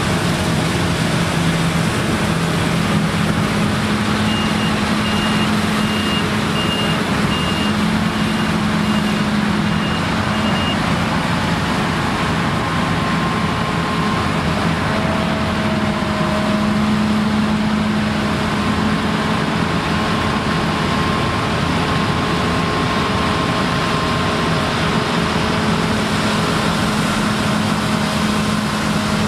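Claas Lexion combine harvesters running steadily under load while harvesting rye, a dense mechanical din with a low engine hum. A few seconds in, a high reversing alarm beeps about one and a half times a second for several seconds, fading out.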